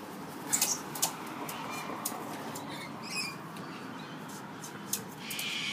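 A bird giving a few short high squeaks and a brief raspy call near the end, among scattered sharp clicks.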